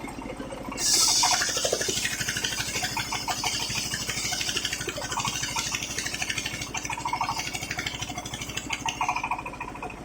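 Sawmill circular saw blade cutting waru wood into battens: a loud hissing cut starts suddenly about a second in and runs until near the end. It sits over the steady, evenly pulsing drone of the engine.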